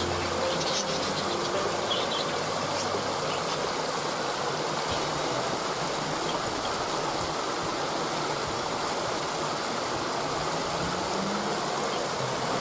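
Waterfall: a steady rush of falling water, with a few faint high bird chirps in the first few seconds.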